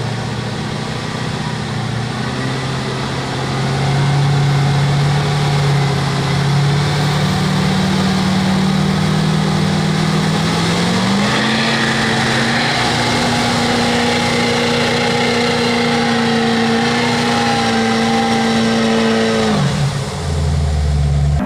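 Monster truck's supercharged 565 cubic-inch big-block Chevy V8 running under load as it is driven. The engine pitch climbs about ten seconds in, holds steady, then drops sharply near the end.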